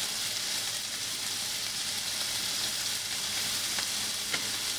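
Diced chicken breast frying in olive oil in a frying pan: a steady sizzle, with a few faint clicks in the second half.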